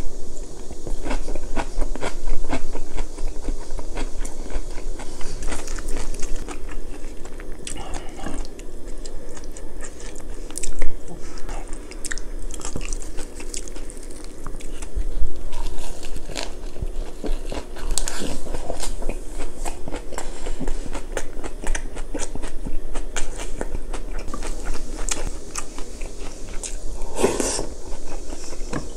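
Close-miked chewing and biting of mouthfuls of food: wet mouth sounds with a steady run of small clicks and crisp crunches from lettuce wraps and fresh young-radish kimchi, a little louder near the end.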